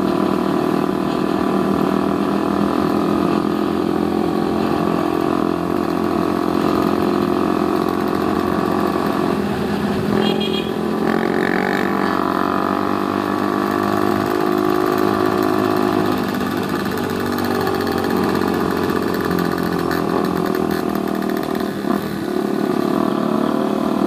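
Yamaha Vixion motorcycle's single-cylinder engine running while cruising on the road, its pitch dipping and rising again a couple of times around the middle, with wind rushing past. A few short high beeps sound about ten seconds in.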